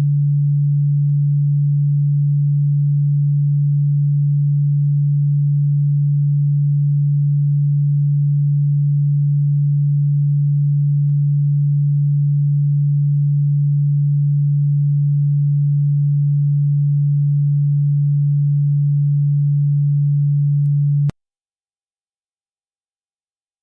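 Electronically generated steady low pure tone, played as a cockroach and ground-bug repellent sound. It cuts off suddenly a couple of seconds before the end, leaving silence.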